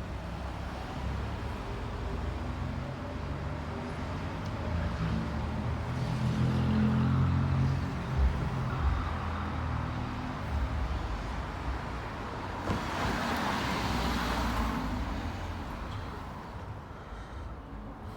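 Road traffic passing by: a heavy vehicle's engine rumble swells about six to eight seconds in, followed around thirteen seconds in by a rush of tyre and road noise as another vehicle goes past.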